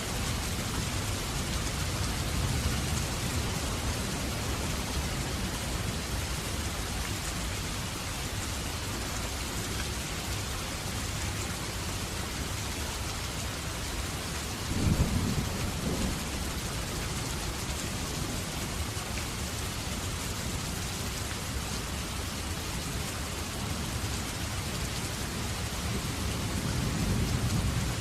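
Heavy rain falling steadily with rolling thunder: a low rumble throughout, a sharp thunder crack about halfway through and another swell of thunder near the end.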